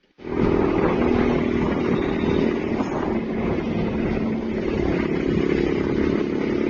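Loud, steady traffic noise from heavy trucks, their engines running as they drive past, cutting in abruptly just after the start.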